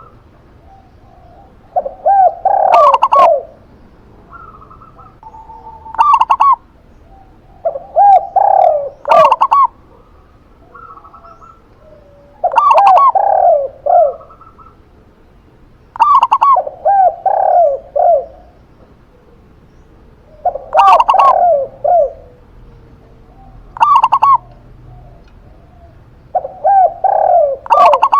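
Captive zebra dove and spotted dove cooing in turn, short single coos alternating with longer multi-note cooing phrases every couple of seconds.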